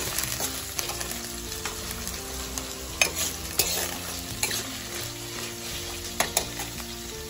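Sliced onions and ginger paste sizzling in hot oil in a kadai while a spatula stirs them, with several sharp scrapes and knocks of the spatula against the pan.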